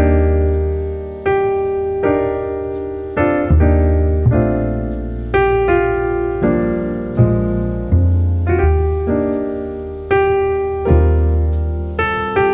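Background piano music: slow chords struck about once a second over deep bass notes, each left to ring and fade.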